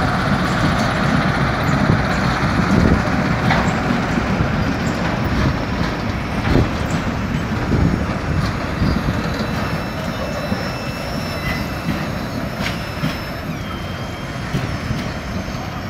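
Tank wagons of a freight train rolling past on the rails, wheels rumbling with occasional knocks over the track. Thin high wheel squeals come in during the second half, and the sound fades as the last cars move away.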